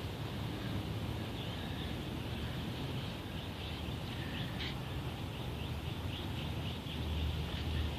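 Outdoor background noise with a steady low rumble and a run of short, high chirps repeating about three times a second.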